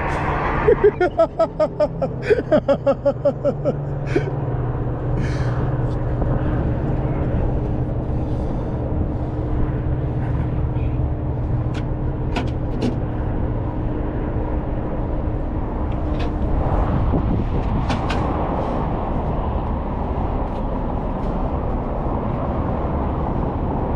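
Heavy truck running with steady engine and road noise. In the first few seconds a pitched, rhythmic pulsing of about four beats a second sounds over it, and a few short clicks come later.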